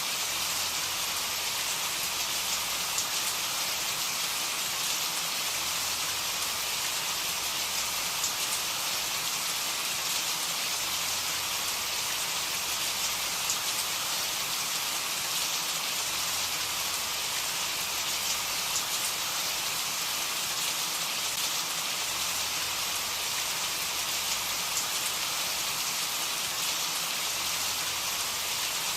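Steady rain falling and pattering on a surface, a constant hiss with scattered individual drop ticks.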